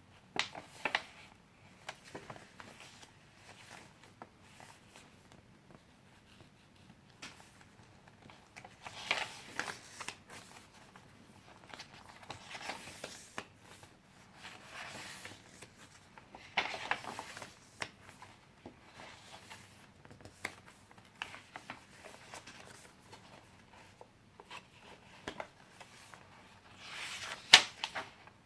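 Pages of a handmade paper junk journal being turned and handled, in short rustling swishes every few seconds, with a sharper flap of paper near the end.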